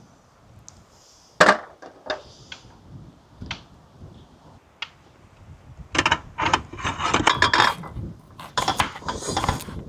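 Sharp knocks and clatter of cooking utensils and pots. A few scattered strikes come first, then a quick run of clattering from about six seconds in.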